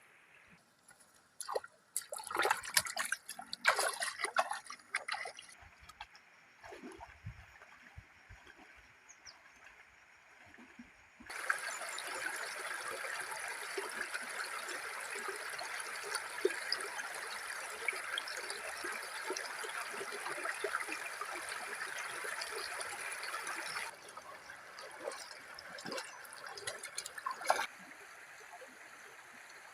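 Scattered knocks and rustling, then a steady run of trickling water that starts and stops abruptly, followed by a few more knocks.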